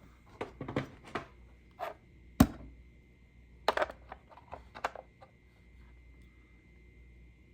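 Hard plastic toy parts being handled, giving a run of sharp clicks and knocks, the loudest one about two and a half seconds in.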